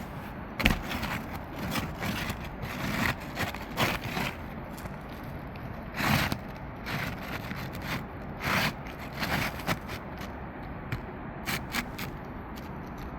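Asphalt roof shingles scraping and crackling as they are worked by hand, with scattered short knocks; the old shingles are brittle.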